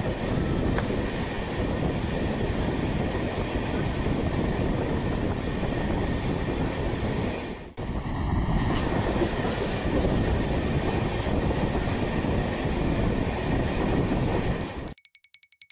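A moving train's steady running noise: wheels rumbling on the track. It drops out for a moment about halfway, comes back, and stops abruptly near the end.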